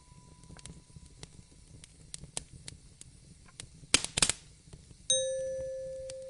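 Wood fire crackling in a fireplace with scattered small pops and a sharp burst of louder pops about four seconds in. About a second later a single bell-like chime is struck and rings on, slowly fading.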